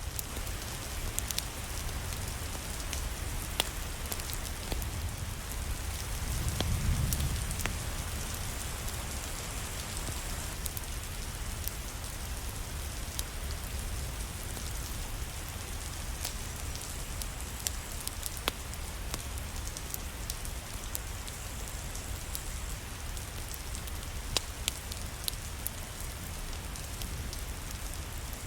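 Steady rain falling, an even hiss with scattered sharp clicks and taps. A low rumble swells briefly about seven seconds in.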